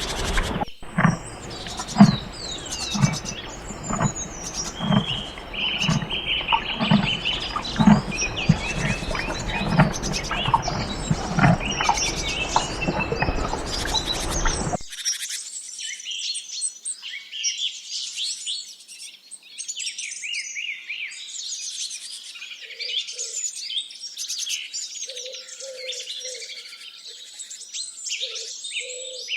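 Many birds chirping and singing, a dense chorus of short high calls. In the first half a steady rumbling noise runs beneath them, with a soft low knock about once a second. This cuts off abruptly about halfway, leaving the birdsong alone with a few short low calls near the end.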